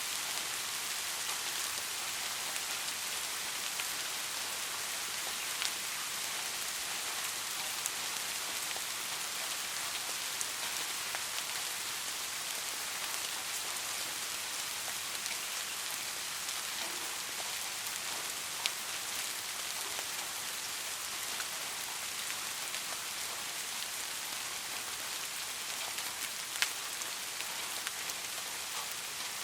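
Steady rain falling: an even hiss with a few louder single drops standing out now and then.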